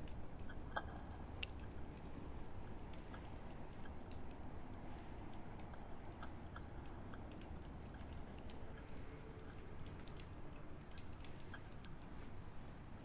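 Wood fire of dry pruned branches crackling in a stainless-steel secondary-combustion fire pit: irregular sharp pops and ticks over a low steady rumble.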